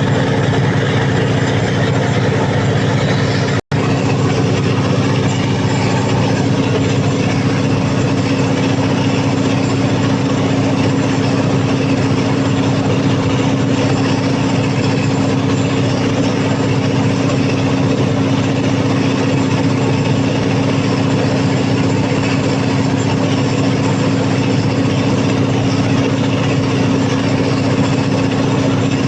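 Cummins KTA50 V16 turbocharged diesel generator engine running loud and steady under load during a load test, at about 300 kW, with no change in speed. The sound cuts out for an instant about four seconds in.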